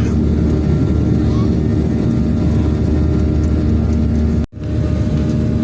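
Boeing 737-800's CFM56 jet engines, a loud steady drone with a low rumble and a constant hum. The sound cuts out for a split second about four and a half seconds in.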